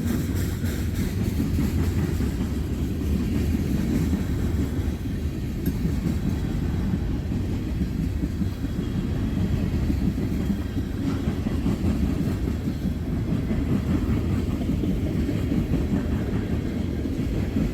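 A long CSX freight train of tank cars rolling past at a crossing: a steady, continuous low rumble of steel wheels on rail.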